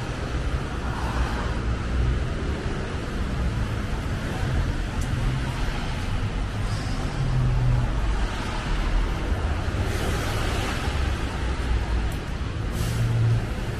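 Road traffic on a snowy city street: a steady rumble of passing vehicles and tyre noise.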